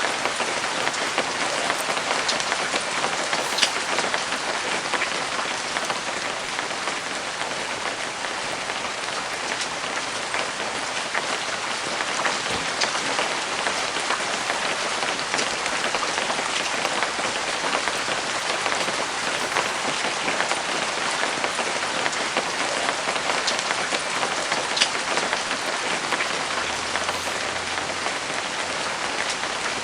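Steady light rain falling on surfaces, a constant hiss with scattered individual drops ticking through it.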